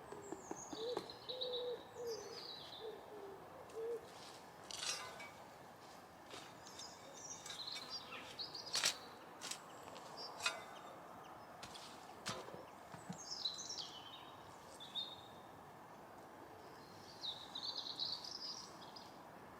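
Wild birds calling faintly: repeated high, falling chirp phrases that come back every few seconds, with a lower wavering call over the first few seconds. A few short sharp clicks or knocks come in between.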